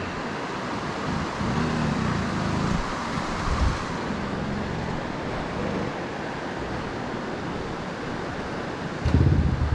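Wind rushing over the microphone while an enduro motorcycle engine runs low for the first few seconds, with heavy gusts buffeting the microphone near the end.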